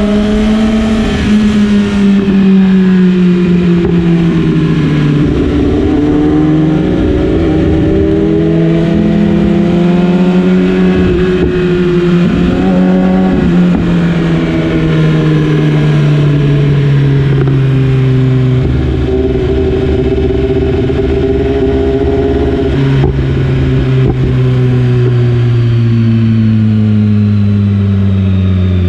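BMW S1000RR's inline-four engine heard onboard, ridden in second gear, its pitch rising and falling with the throttle through the bends and falling for a long stretch in the last third. Wind noise runs under it.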